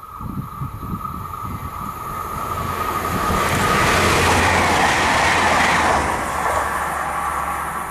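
Bombardier AGC regional multiple unit passing at speed without stopping: the rush of wheels on rail and moving air builds up, is loudest about four to six seconds in as the train goes by, then fades away. A steady high tone runs underneath throughout.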